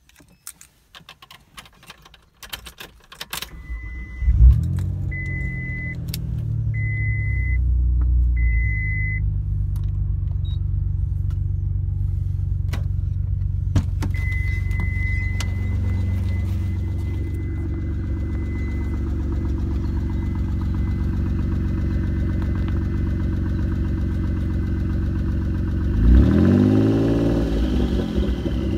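Clicks and key jangling, then the 1994 Mitsubishi 3000GT VR4's twin-turbo 3.0-litre V6 starts about four seconds in and settles into a steady idle. A high beep sounds four times and later turns into a steady high tone. Near the end the engine revs up and falls back.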